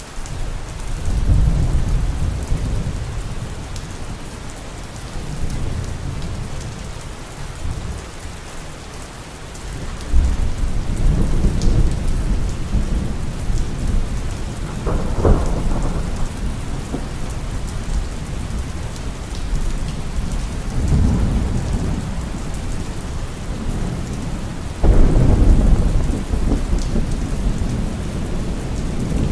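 Heavy rain falling steadily, with rolls of thunder rumbling up and fading several times. About halfway through comes a sharper clap, and a few seconds before the end the loudest rumble breaks in suddenly.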